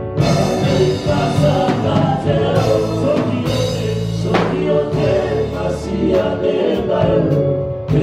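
Live gospel worship music: a choir singing over instrumental backing with sustained low bass notes.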